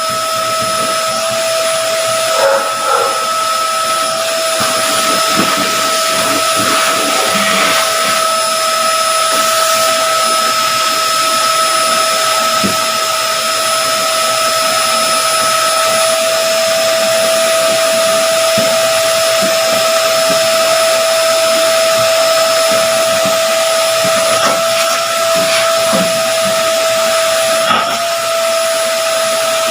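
A small electric motor running steadily with a high whine over a rushing, airy hiss.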